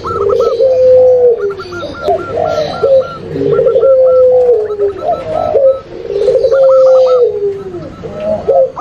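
Mixed cooing of zebra doves, Sunda collared doves and long-cooing barbary doves (puter pelung) calling over one another: long, slightly falling low coos overlaid with quicker, higher repeated notes, the phrases recurring every couple of seconds. It is a combined lure recording used to draw these doves in for trapping.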